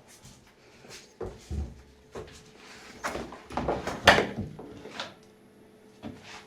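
Knocks, clunks and scraping of washing-machine parts being handled and fitted during the repair. There is a series of separate knocks, and the loudest comes about four seconds in.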